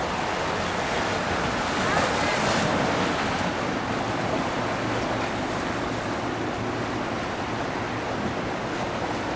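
Steady rush of water with wind noise on the microphone, swelling briefly about two seconds in.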